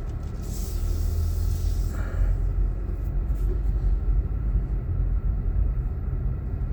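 A car driving, with a steady low road rumble and a brief rise of hiss from about half a second to two seconds in.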